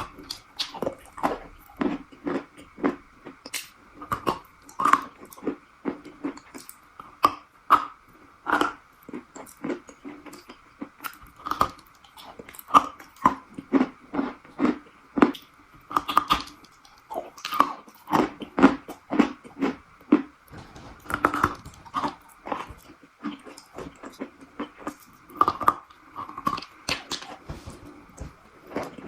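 Close-up chewing of something crunchy and brittle: irregular sharp crunches several times a second, with steady wet chewing between them.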